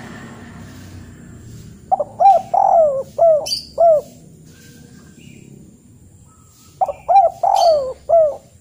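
A bird calling in two phrases of about five short notes each, each note rising and falling in pitch. The phrases start about two and seven seconds in.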